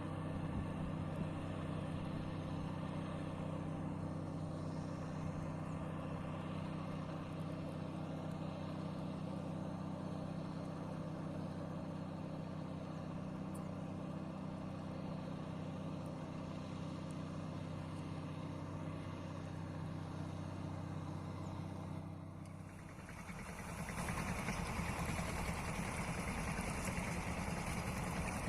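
Boat engine running at a steady speed, a constant low hum. About 23 seconds in it dips briefly, then comes back rougher and noisier, with more hiss.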